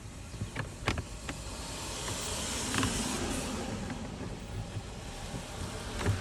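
A new paper cabin air filter being handled and slid into its plastic housing: a few light plastic clicks, then a rustling scrape that swells and fades, and one more click near the end.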